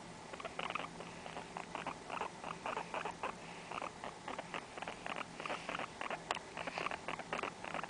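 Guinea pig close by, making a long run of short, irregular scratchy clicks, several a second, with no squeaks or whistles.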